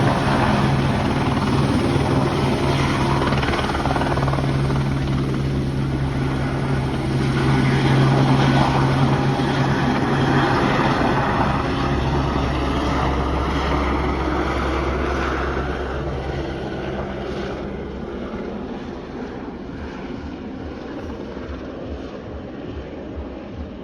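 Airbus AS350 Esquilo helicopter's rotor and single turboshaft engine running with a steady low drone, which drops in pitch about halfway through and gets quieter over the last several seconds.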